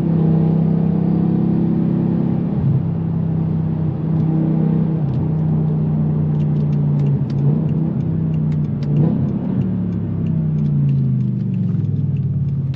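BMW M6's V10 engine running through a straight-piped exhaust at a steady moderate pitch under light throttle, its note falling as the revs drop toward the end. Faint clicks run through the second half.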